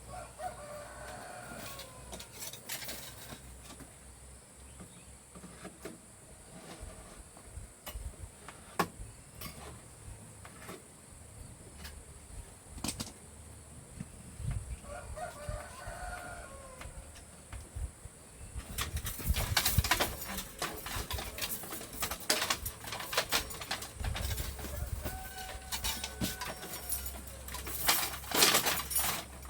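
Rooster crowing three times, each a short call that falls slightly at the end, spaced about ten seconds apart. A steady high whine stops about two-thirds of the way through, and from then on there is dense crackling and rustling.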